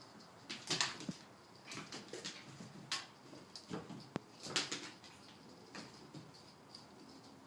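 Scattered light taps and rustles of a cat pouncing on and batting a toy bird, a few strikes a second apart.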